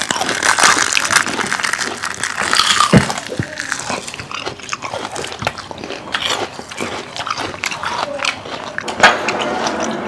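Close-miked eating sounds: several people chewing, crunching and smacking their lips, with crisp bites of roasted seaweed. One sharper crunch comes about nine seconds in.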